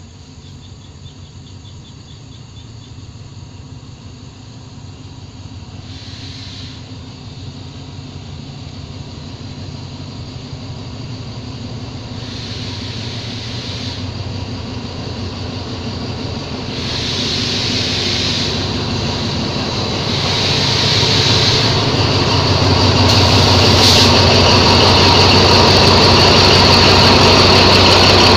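Diesel-electric locomotive No. 4212 hauling an express passenger train, approaching and slowing into the station, its engine growing steadily louder as it draws near. High hissing and squealing from the wheels and brakes comes and goes, then settles into a steady high squeal near the end as the locomotive passes close by.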